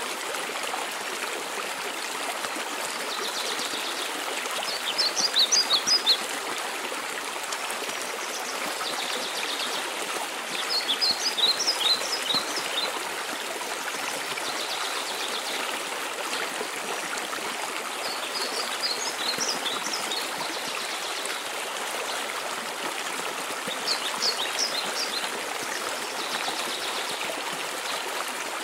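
Steady rush of falling water from a waterfall, with a songbird singing short phrases of quick high notes about every six seconds, four times in all.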